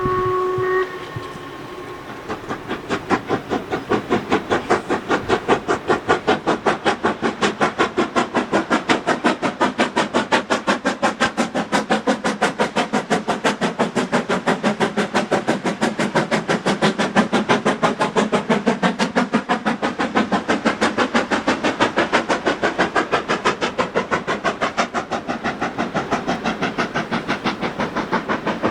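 Steam locomotive whistle sounding a steady chord that cuts off about a second in, followed by the locomotive chuffing in a steady, rapid beat as the train passes.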